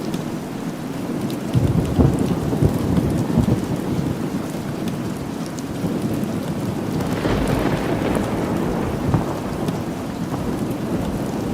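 Steady rain with thunder rumbling low, swelling about a second and a half in and again past the middle.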